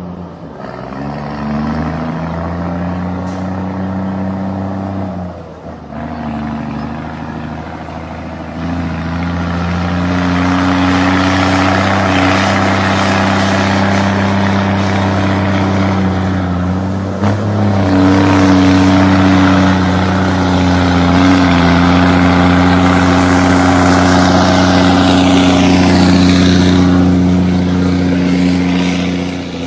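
Scania 124 truck's diesel engine with a straight-through exhaust, loud and pulling hard. Its note steps at gear changes about five, eight and seventeen seconds in, and is at its loudest in the last part.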